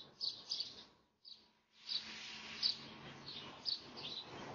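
Small birds chirping, short high chirps repeated a few times a second over a faint steady outdoor hiss, with a brief break in the sound about a second in.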